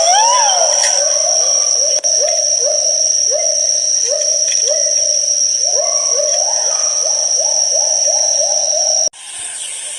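Great argus pheasant's long call: after a wavering opening note, a series of short rising notes repeats faster and faster, over a steady high-pitched whine. The sound cuts off abruptly about nine seconds in, leaving a quieter hiss.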